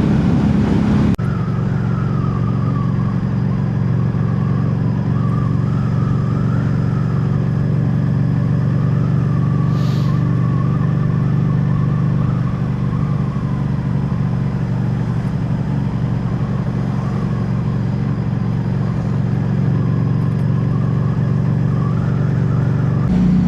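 Harley-Davidson Street 500's V-twin engine running steadily under way, a low even hum with a faint wavering higher tone above it.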